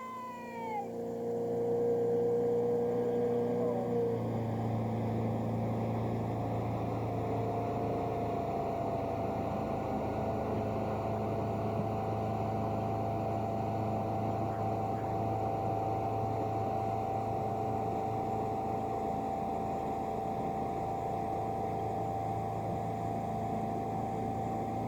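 Motorboat engine running under way. It picks up about two seconds in, then holds a steady, even drone.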